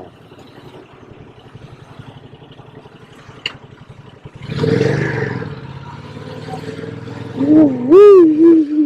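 Yamaha MT-07's parallel-twin engine running under way, revving up about four and a half seconds in and then holding a steady note. Near the end the rider lets out a loud, wavering drawn-out vocal cry, the loudest sound.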